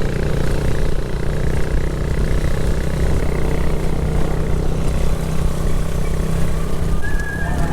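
Motorcycle engine running steadily while riding, with noise over the microphone. A wavering higher tone comes in near the end.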